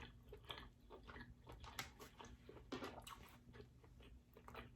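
Quiet close-up chewing of tender king crab meat: irregular soft mouth clicks and smacks, with a few slightly louder ones about two and three seconds in.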